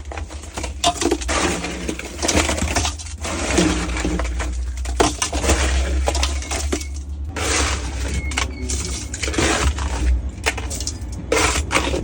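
Irregular clattering, clinking and scraping of hard objects, over a steady low hum.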